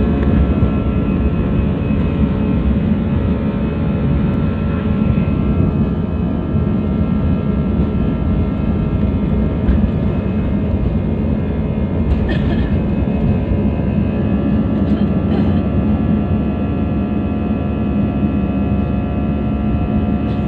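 Steady drone of an airliner's jet engines heard inside the passenger cabin, a dense low rumble with a hum of several steady tones. There are a few faint short knocks about halfway through.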